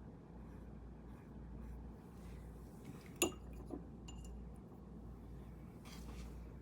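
A single sharp clink with a short ring about three seconds in, then a softer knock half a second later: a hard tool or object tapped against a small cup or jar on a work table.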